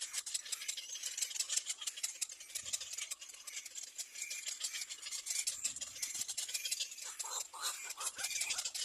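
Nestling birds begging at the nest: a dense, rapid, scratchy high-pitched chatter, with a few lower, fuller calls near the end.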